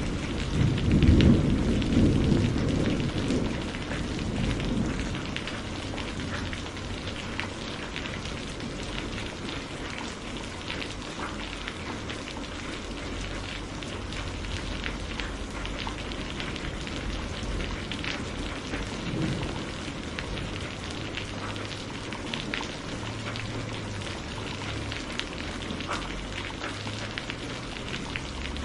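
Steady rain with a low roll of thunder in the first few seconds, then rain alone with scattered sharp crackles and ticks over it.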